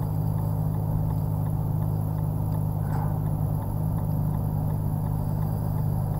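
Nissan GT-R's twin-turbo V6 idling steadily, heard from inside the cabin.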